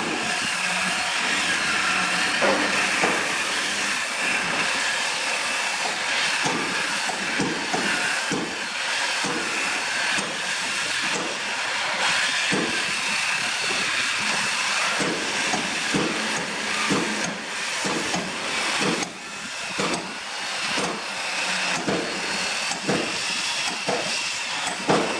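Steady mechanical hiss with many irregular knocks and clatters throughout.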